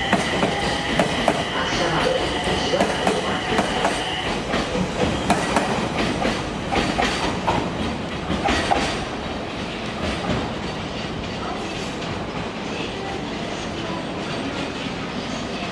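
JR East E721-500 series electric commuter train pulling out, its wheels clacking over rail joints and points. A high steady whine stops about four seconds in, and the clacking thins out after about nine seconds, leaving a quieter running rumble.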